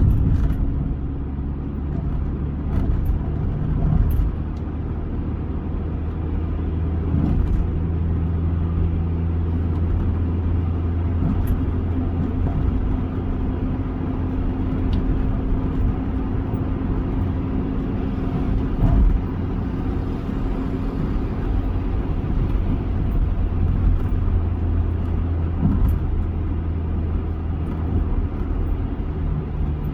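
Toyota Avanza on the move: a steady low engine hum with road noise, and a few brief knocks along the way.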